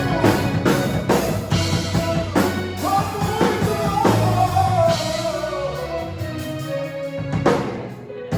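Live gospel band playing: a drum kit keeping a steady beat under a voice singing long held notes, with guitar. The drums drop out about halfway, leaving sustained notes, and one more strong hit comes near the end before the music eases off.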